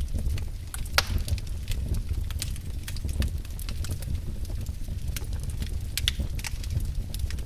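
Wood fire crackling in a fireplace: scattered sharp pops and snaps over a low, steady rumble of the flames, with louder pops about a second in and again around six seconds in.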